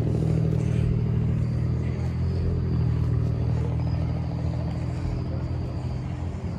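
Car engine running steadily with a low, even engine note, easing off slightly in level near the end.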